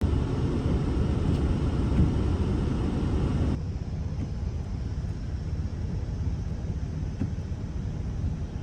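Blizzard wind buffeting the microphone, a loud rumbling noise with no distinct tones. It drops abruptly to a quieter rush about three and a half seconds in.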